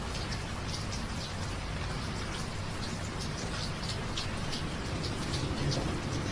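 Steady rain, with many separate drops splashing distinctly close by.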